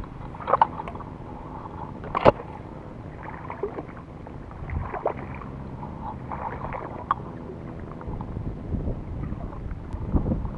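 Irregular water sloshing and splashing, as of someone moving through shallow swamp water, with two sharp knocks about half a second and two seconds in.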